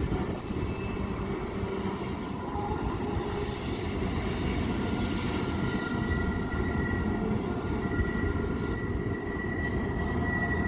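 A train running by with a steady low rumble. Faint, steady high-pitched tones come in about halfway through.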